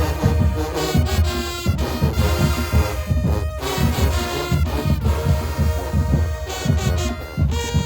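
High school marching band playing: brass horns over a steady, pounding bass drum beat.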